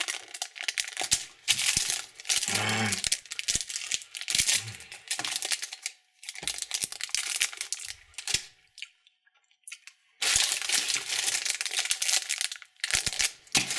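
Candy wrappers crinkling and tearing as they are handled and opened, in several spells. There is a short pause about two-thirds of the way through.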